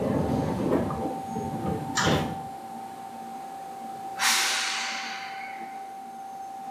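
Seibu 2000 series train: a low rumble and a knock about two seconds in, then a sudden hiss of released compressed air about four seconds in that dies away over two seconds. A faint steady tone sounds throughout.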